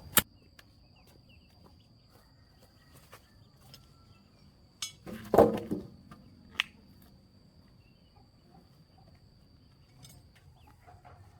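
A sharp knock, then a few seconds later a short cluster of knocks and clattering, over a faint, steady, high insect drone.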